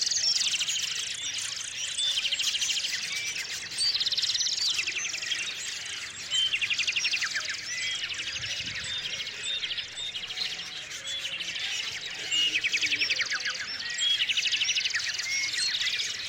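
Small songbirds chirping, with one bird repeating a short, fast trilled song phrase about every two seconds.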